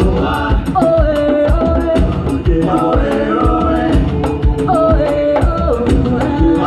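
Live band music with singing and a steady drum beat: a Latin-style holiday song played by the stage band, the vocal melody sliding between held notes.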